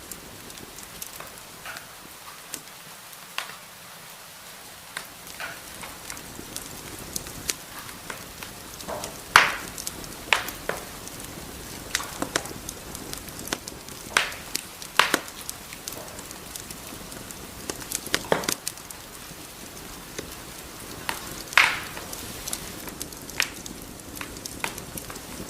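Wood fire burning in a fireplace: a steady soft hiss with irregular crackles and sharp pops, a handful of them louder than the rest.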